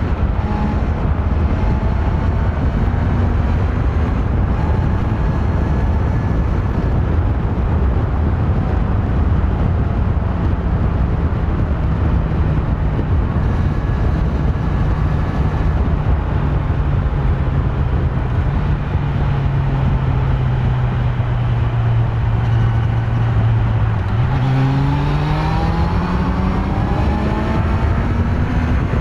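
Kawasaki Z900's inline-four engine on its stock exhaust, running under way. The engine note sinks slowly as revs drop, then rises steadily near the end as the bike accelerates.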